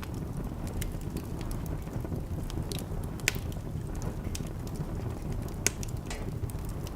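Wood fire crackling in a fireplace: a steady low rumble of the flames with scattered sharp crackles and two louder pops of burning wood.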